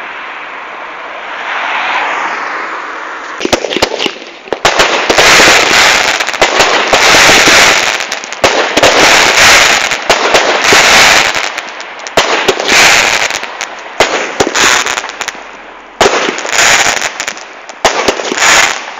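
Fireworks going off: a fading hiss at first, then from about three and a half seconds a long run of loud crackling bursts, roughly one a second, with sharp pops among them.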